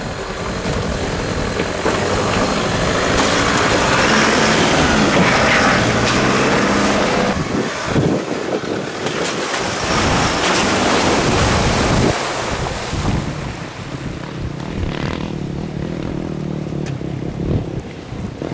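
Toyota Hilux 4x4 engine running as the truck drives through ruts on a dirt track, with wind noise on the microphone. The sound builds in the middle and eases off toward the end.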